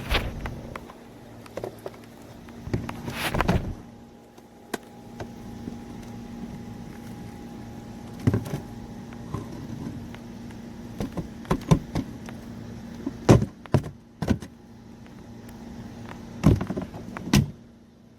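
Clicks and knocks of a Shark vacuum's plastic dust cup being handled, unlatched and emptied. The sharp knocks come in clusters, loudest around three seconds in and again in the last few seconds, over a steady low hum.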